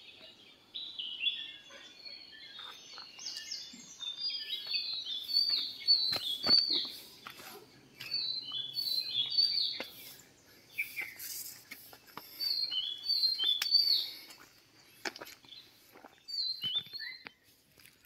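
Small birds chirping in quick runs of short, high, falling notes, on and off, with a few knocks and crunching steps on dry leaves near the end.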